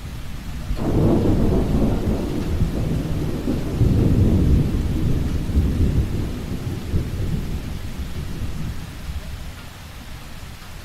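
A thunderclap over steady rain: a loud rumble breaks in just under a second in, swells again around four seconds and slowly rolls away.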